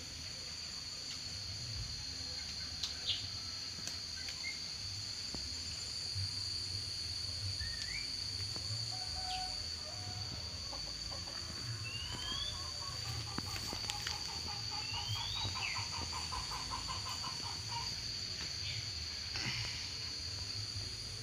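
Birds calling outdoors: scattered short chirps, a couple of quick rising notes, and a run of rapid repeated notes a little past halfway. A steady high-pitched whine and a low rumble run underneath.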